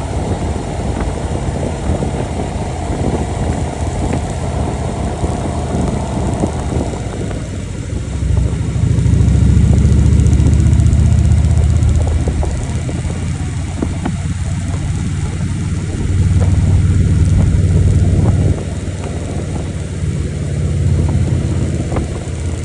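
Motorcycle engine running while riding, under a steady rush of wind noise. The engine's low drone swells louder three times: about a third of the way in, past the halfway point (dropping off suddenly), and again near the end.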